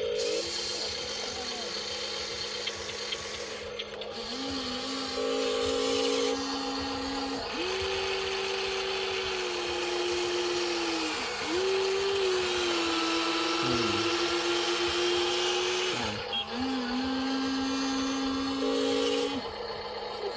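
Electric motors of a Huina radio-controlled excavator whining in spells of a few seconds, starting and stopping and changing pitch from one movement to the next, over a steady low hum.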